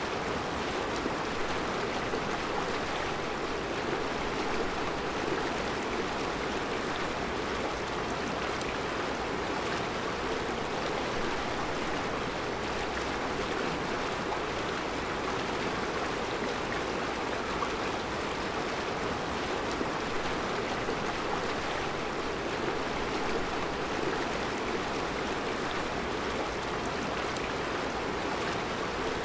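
Mountain river flowing over round rocks in its bed: a steady rushing of water that holds even throughout.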